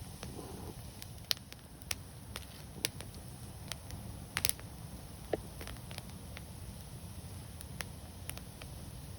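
Fire crackling: a steady low rumble of flames with sharp pops every second or so, the loudest a quick double pop about halfway through.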